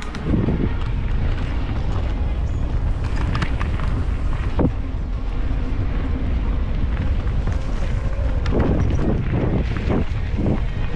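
Wind buffeting the microphone of a camera on a mountain bike in motion, with the knocks and rattles of the bike over a rough trail, heaviest near the end.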